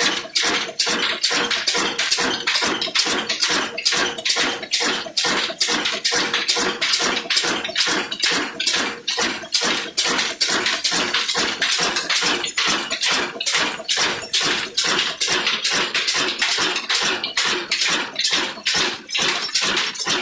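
Old Ruston Hornsby stationary diesel engine running steadily, its beats coming in an even rhythm of about four a second.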